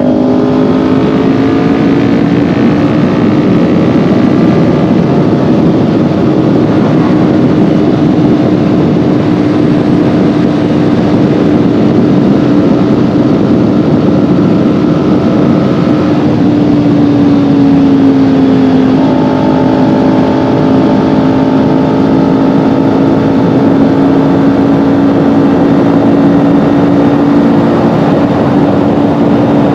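Kawasaki Ninja 400's parallel-twin engine running at a steady cruise under heavy wind rush; its pitch rises a little at first and eases slightly down about two-thirds through.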